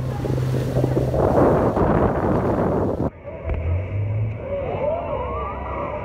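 Wind buffeting the microphone over the steady low hum of a boat's engine. About three seconds in, the sound cuts suddenly to a quieter, muffled recording with faint rising and falling pitched sounds.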